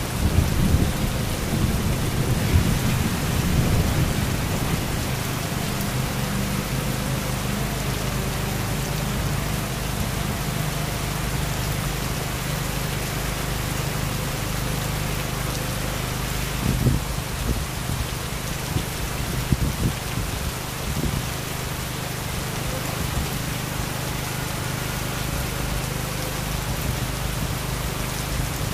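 Heavy rain falling steadily, with thunder rumbling low during the first few seconds. A few sharp cracks come around the middle of the clip.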